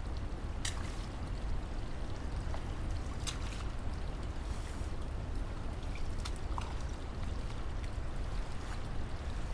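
Steady rushing noise, strongest in the low end, with a few sharp clicks scattered through it.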